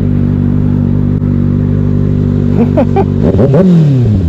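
Kawasaki ZX-6R inline-four motorcycle engine idling steadily, with an engine's pitch falling away like a rev dropping near the end.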